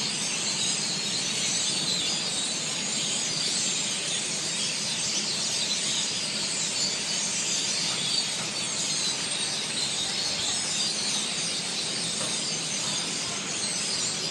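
A flock of birds chirping, a dense, unbroken chatter of many overlapping high calls.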